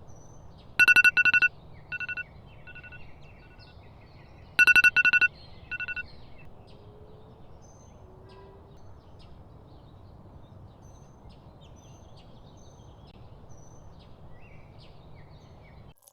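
Electronic alarm beeping: two bursts of three quick loud beeps about four seconds apart, each followed by fainter beeps. After that, faint bird chirps over a low steady hum.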